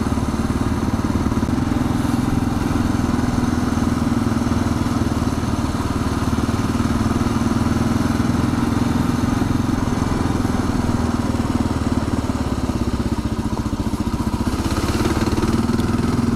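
Kawasaki KLR 650's single-cylinder four-stroke engine running at a steady pace under way, with a brief rush of hiss near the end.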